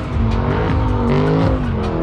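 Car engine held at high revs, its pitch swinging up and down, as the car spins donuts with its rear tyres spinning and squealing.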